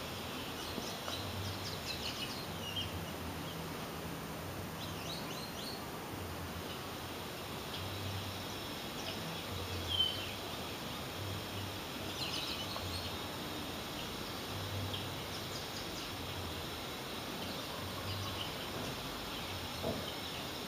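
Steady background hiss with faint, scattered bird chirps, the clearest a short chirp about halfway through.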